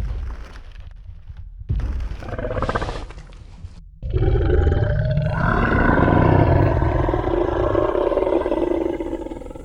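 Designed T. rex roar sound effect: a short low growl about two seconds in, then a long, loud roar starting about four seconds in and fading away near the end.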